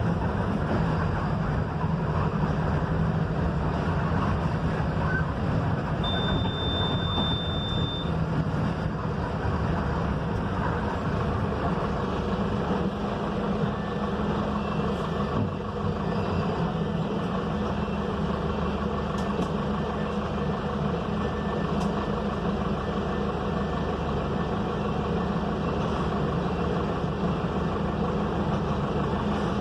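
Diesel engine of a Mercedes-Benz OF-1721 BlueTec 5 bus running steadily under way, its low drone dropping in pitch about two thirds of the way through. A short high beep sounds for about two seconds near the start.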